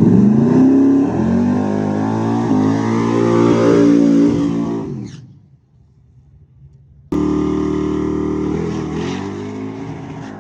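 Race car engine accelerating hard, its pitch climbing and stepping through gear changes, then fading away about five seconds in. After a short near-silence, a high-revving engine comes in abruptly about seven seconds in and slowly fades.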